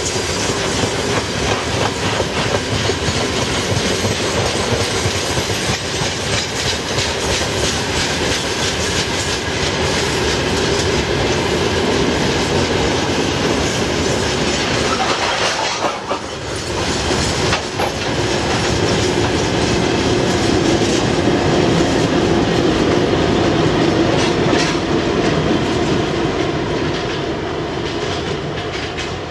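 Loaded freight gondola wagons rolling past close by, their wheels clattering steadily over the rail joints, with a brief lull about halfway through. In the later part a heavier hum builds as the tail pusher, a VL10U electric locomotive, passes, then it eases off slightly as the train draws away.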